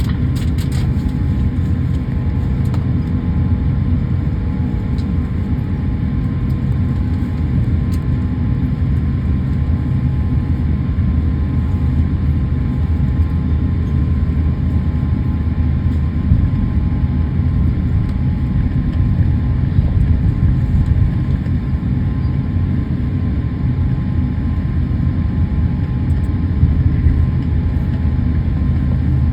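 Steady cabin noise inside a jet airliner: a continuous low rumble of engines and airframe, with a few faint steady tones over it.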